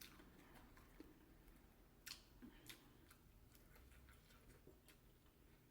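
Near silence with a few faint, short clicks of eating: quiet chewing and mouth sounds over fried chicken.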